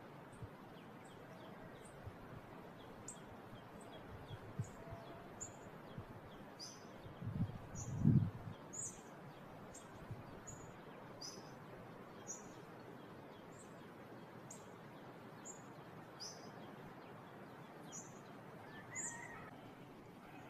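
A small bird repeating short, high chirps about once a second over a faint steady hiss. A brief low rumble about a third of the way in is the loudest sound.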